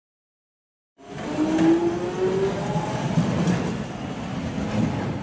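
London Underground Jubilee line train passing through a station at speed: the rumble of wheels on rail with a whine over it. It cuts in suddenly about a second in.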